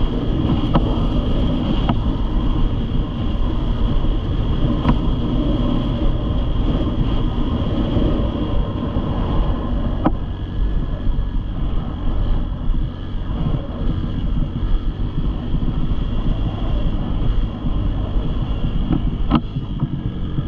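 Dirt bike engine running steadily, with wind noise on the microphone.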